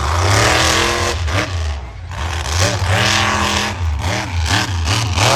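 Monster truck engine revving hard in repeated throttle blips, its pitch climbing and dropping three or four times over a deep, steady drone.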